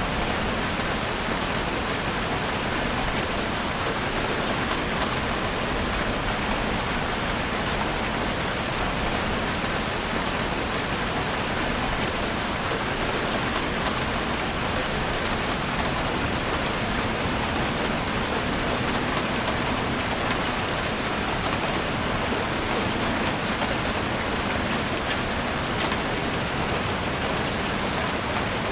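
Heavy rain falling on a roof: a dense, steady hiss with scattered fine drop ticks, unchanging throughout.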